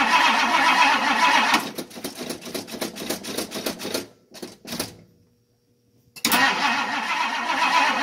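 1962 Ford Thunderbird's 390 V8 being turned over by the starter on a cold start attempt. The steady cranking breaks off into a few slowing, fading pulses as it spins down and stops, then after about a second of quiet the cranking starts again.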